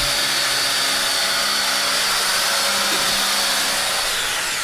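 Electric power tool motor running steadily at full speed with a high whine, then released about four seconds in and winding down.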